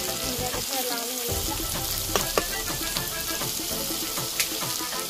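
Rugda mushrooms sizzling as they fry in hot oil in a steel kadai, with a few scrapes and clicks of a steel spatula stirring them.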